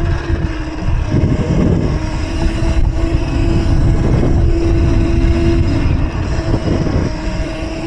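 Electric mini bike's motor whining at a steady pitch while riding, with wind rumbling heavily on the microphone.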